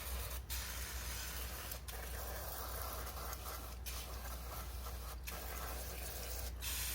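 Aerosol cleaning product sprayed onto dirty scooter transmission parts: a steady hiss in long bursts, broken by short pauses about every second and a half.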